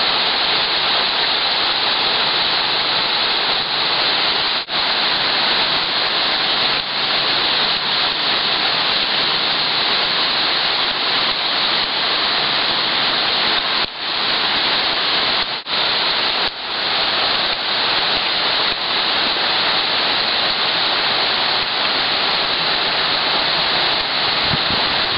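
Heavy rain pouring steadily, a dense unbroken hiss, cut off for an instant four times.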